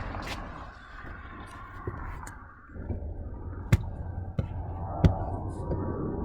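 Rain falling, a steady wash of noise over a low rumble, with three sharp drips landing close by in the second half.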